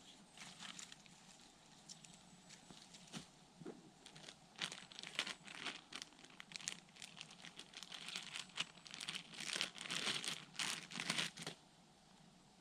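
Irregular crunching and rustling, like someone moving through forest undergrowth over dead leaves and twigs, sparse at first, getting busier midway and dying away near the end.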